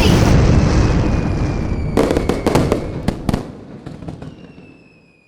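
Fireworks going off: a loud, continuous rush of bursting and crackling that dies away, with a cluster of sharp cracks about two to three seconds in before it fades out near the end.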